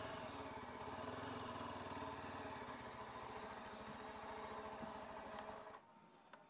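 Yezdi Adventure motorcycle's single-cylinder engine idling steadily, then switched off near the end, where the sound cuts out suddenly.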